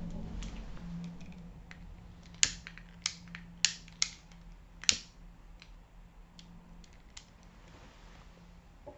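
A candle being lit: a run of sharp clicks or strikes, five loud ones close together in the middle and fainter ticks around them, over a faint steady low hum.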